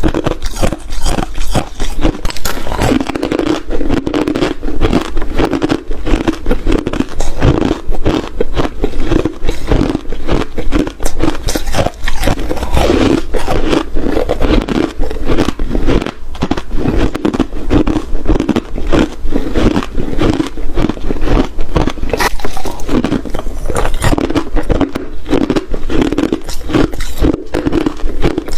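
Ice being bitten and chewed close to the microphone: a dense, unbroken run of loud crunching.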